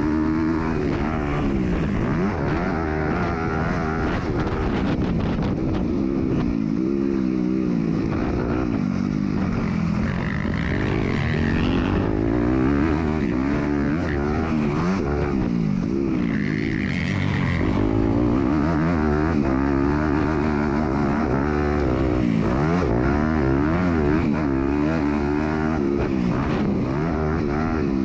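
MX2 motocross bike's engine, heard from on board, revving up and falling back again and again as the throttle opens and closes and the rider shifts gears around the track.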